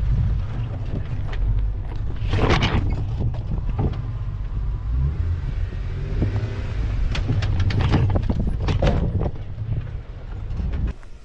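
Off-road 4x4's engine rumbling at low speed, with knocks and clatter as it crawls over rocks: one about two seconds in and a cluster later on. The rumble drops off just before the end.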